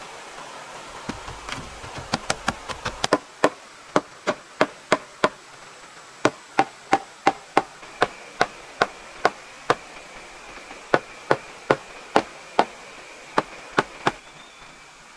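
Hammer blows on wood: a long series of sharp strikes, quick at first, then about two to three a second with a few short pauses.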